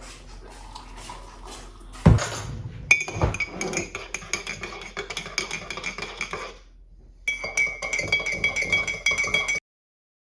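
A spoon stirring tea in a cup, clinking rapidly against the sides with a ringing tone, after a knock about two seconds in. The stirring pauses briefly, resumes, then cuts off.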